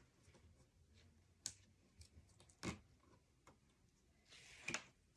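Faint handling of paper and cardstock on a work surface: a few soft taps about a second and a half apart and a brief rustle near the end.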